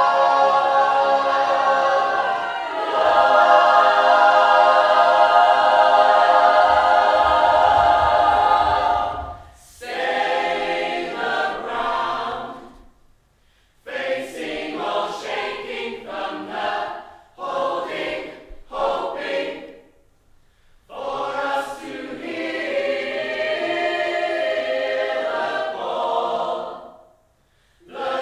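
Several voices singing together in harmony. Long held chords for about the first nine seconds give way to shorter sung phrases broken by brief pauses.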